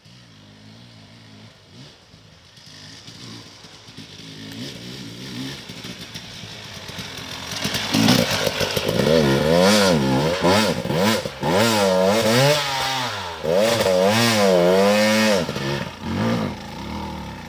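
Sherco enduro motorcycle engine approaching and growing louder. From about halfway through, the revs rise and fall again and again as the throttle is worked hard and released, then the engine eases off near the end.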